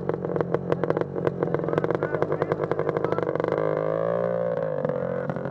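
Small off-road vehicle engine running close by with a rapid ticking patter, revved briefly about three and a half seconds in, rising in pitch and settling back down.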